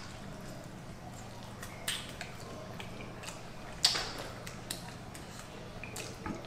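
Close-miked eating sounds: soft chewing and wet mouth noises, with a few short clicks, the sharpest about four seconds in, over a steady low hum.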